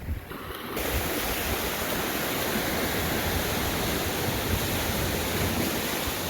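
Steady rushing of sea surf, starting abruptly about a second in.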